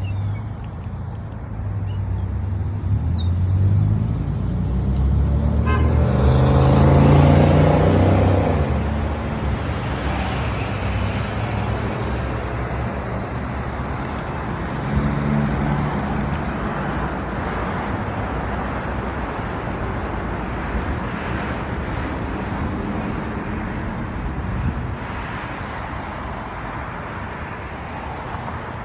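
Road traffic: motor vehicles running and passing, one louder pass building to a peak about six to nine seconds in and another shortly after the middle. A few faint, high bird chirps sound in the first seconds.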